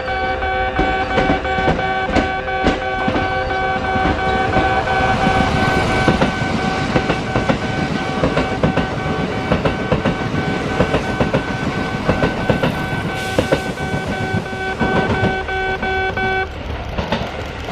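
A Kintetsu train passes through the station. Its wheels clack over the rail joints, quickly at first, under a steady rumble. A steady tone sounding several pitches at once holds over the train and cuts off about sixteen seconds in.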